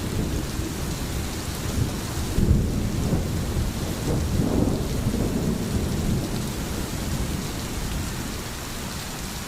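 Steady heavy rain with rolling thunder; a low rumble swells about two and a half seconds in and again around four to five seconds in.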